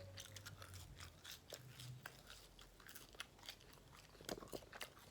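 Someone chewing crunchy McDonald's food close to the microphone: faint, irregular crunches and mouth clicks.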